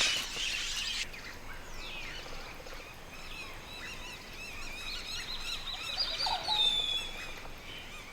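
Several birds chirping and calling over a faint background hiss, with one clear falling whistle about two-thirds of the way through.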